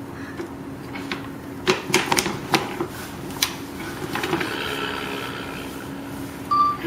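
Hard plastic toy pieces clicking and knocking together in a quick cluster about two seconds in, with another knock a little later, over a steady low hum; they are the removable pieces of a toddler's toy airplane being handled.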